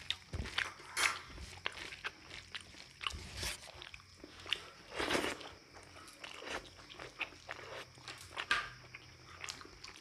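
A person chewing and smacking close to the microphone, eating rice with dal and shrimp chorchori. Irregular short wet clicks and crunches, with a louder, longer mouth sound about five seconds in.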